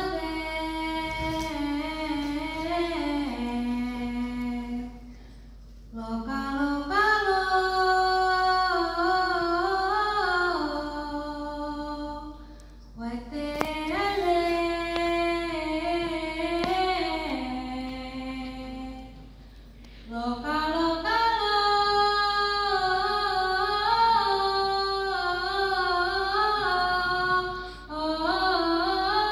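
A female voice singing a joik song (liutt), unaccompanied: four long phrases of drawn-out syllables, the pitch stepping up and down in small wavering steps, with a short breath between phrases.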